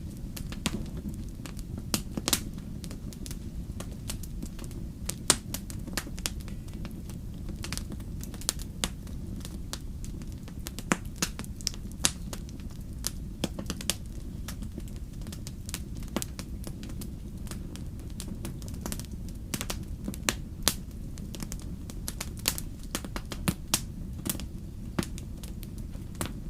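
Wood fire crackling: irregular sharp pops and snaps of burning logs over a steady low rumble of flame.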